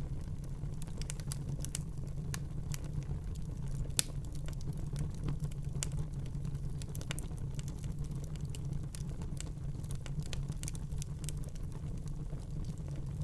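Wood fire burning in a fireplace: a steady low rumble of flames with irregular crackles and pops, and one louder pop about four seconds in.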